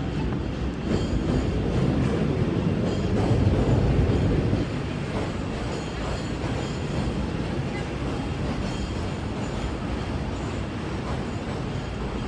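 A train passing, a loud rumble with wheel noise that is loudest about four seconds in and then drops back to a steadier din.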